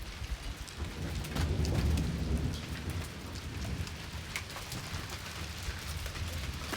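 Steady rain with individual raindrops ticking close by, under a low rumble of thunder that swells about a second in and eases off a couple of seconds later.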